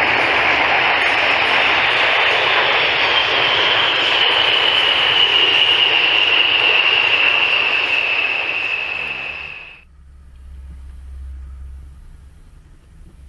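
Military airplane's engines running loud as it passes, with a high whine that slowly falls in pitch. The sound cuts off suddenly near the end, leaving a faint low rumble.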